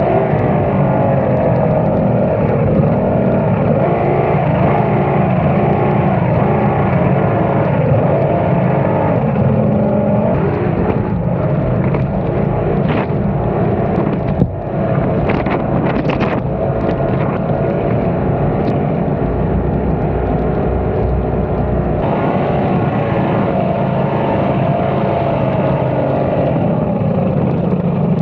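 High-performance outboard engines running hard on a race boat, pitch wavering slightly up and down. A few sharp knocks come midway.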